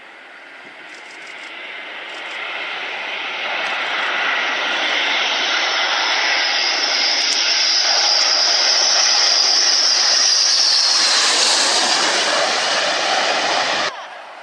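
B-1B Lancer's four turbofan engines as the bomber comes in to land, a broad rushing jet roar growing steadily louder, peaking about ten seconds in with a sharp hiss on top, then cutting off suddenly near the end.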